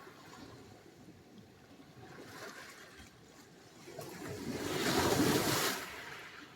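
Sea surf: waves washing on the shore, a small one about two seconds in, then a larger wave breaking and rushing in about four seconds in, swelling and fading away near the end.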